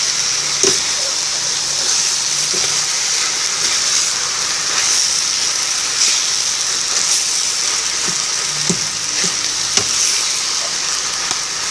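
Chopped banana heart and sardines frying in a hot pan: a steady sizzling hiss as the food is stirred, with a few light knocks of the spatula.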